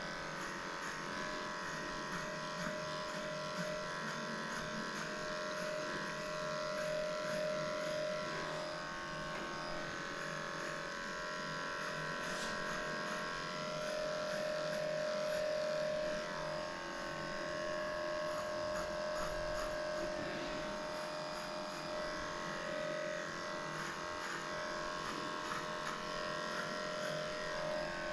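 Electric dog-grooming clipper with an 8.5 blade running steadily with a constant hum, shaving matted hair off a small dog's coat.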